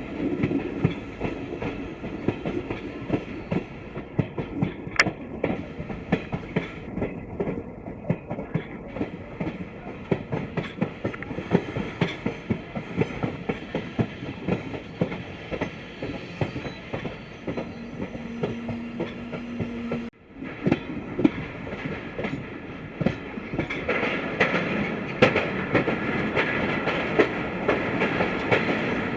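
Broad-gauge passenger train coach running on the track: a steady rumble with wheels clattering over rail joints and the carriage rattling. A short steady low tone sounds about two-thirds of the way through, and the clatter grows louder near the end.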